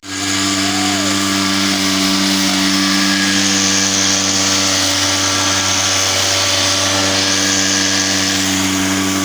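A loud, steady machine drone with several held low tones under a hiss, starting abruptly and running unchanged.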